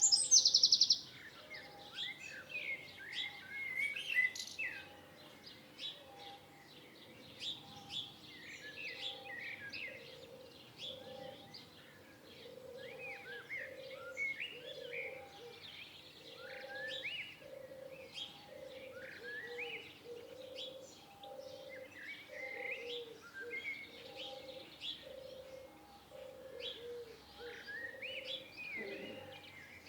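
Several songbirds chirping and whistling in a mixed chorus, with a loud buzzy trill that stops about a second in. A low note repeats about once a second through the second half.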